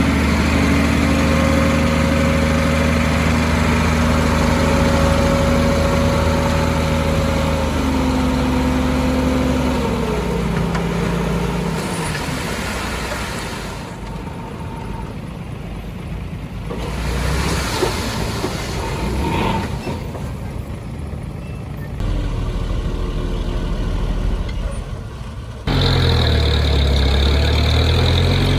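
Heavy construction machine's diesel engine running under load. Its pitch rises at the start, holds steady, then drops in steps about eight and ten seconds in. It gives way to a rougher, noisier stretch with abrupt changes, and about 26 seconds in an engine returns with a wavering pitch.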